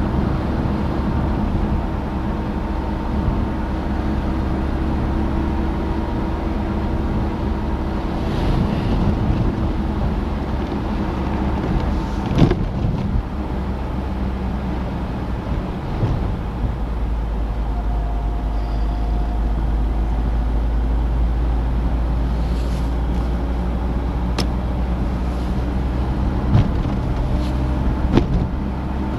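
Citroën DS being driven: its four-cylinder engine runs steadily under a heavy low road rumble, with a few brief knocks from the car over the bumps.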